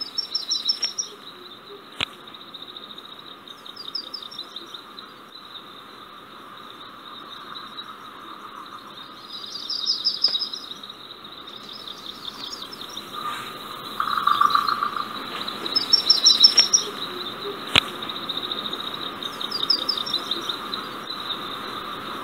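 Birds chirping in short bursts every few seconds over a steady high trill and a lower steady hum, with a couple of sharp clicks.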